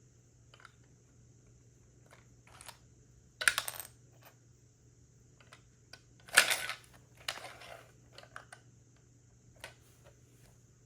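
Plastic Lego pieces clicking and clattering as they are handled and pressed together, with two louder rattling bursts about three and a half and six and a half seconds in.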